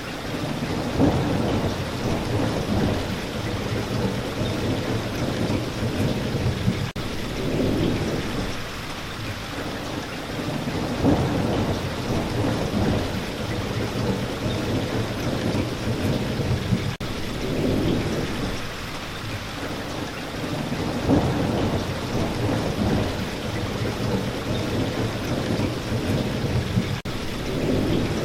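Steady heavy spring rain, with deep low rumbles that swell and fade every few seconds.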